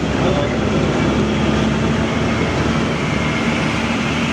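Heavy truck engine running steadily, with a low steady hum.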